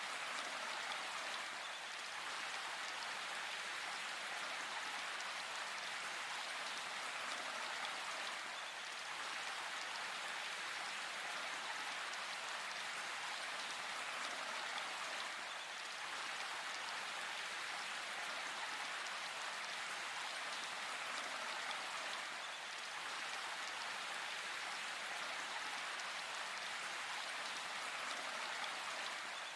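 Steady rain falling in a forest: an even hiss of many drops, with no thunder.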